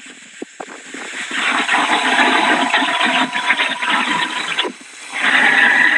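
Hurricane wind and rain rushing against the phone's microphone in gusts: it swells up about a second in, drops away briefly near the end, then surges back, with a thin steady whistle riding on it.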